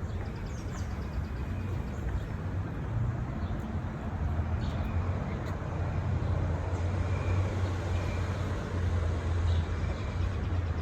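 Steady road-traffic rumble from the surrounding city streets, growing a little louder about halfway through, with a few faint high chirps over it.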